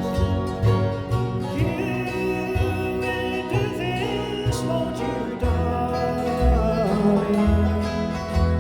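Bluegrass band playing, with guitar and other strings over repeated low bass notes and a held, sliding melody line.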